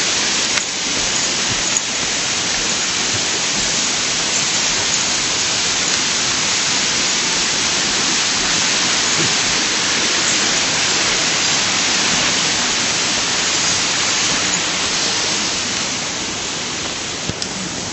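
Steady rush of a stream's flowing water, a loud even hiss that eases slightly near the end.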